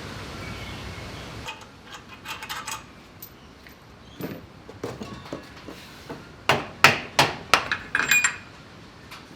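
Engine parts and tools being handled during a bearing-clearance check: a scattering of sharp knocks and clinks, with a quick run of five or six louder strikes about two-thirds of the way in.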